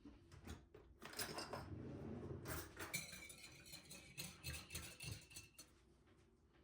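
Kitchenware clinking and clattering: dishes and cutlery being handled, with a knock about three seconds in that leaves a brief ringing tone.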